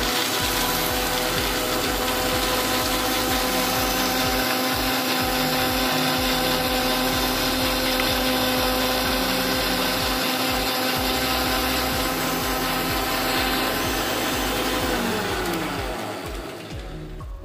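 Electric mixie (mixer-grinder) motor running at full speed, blending milk, ice cream and ice cubes into a coffee milkshake. It is switched off about 15 seconds in, and its pitch falls as it winds down.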